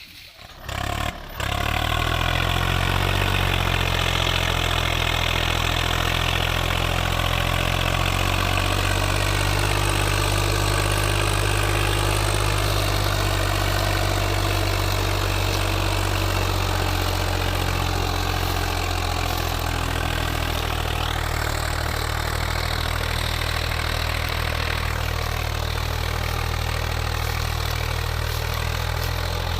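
Tractor diesel engine starting about a second in, then idling steadily.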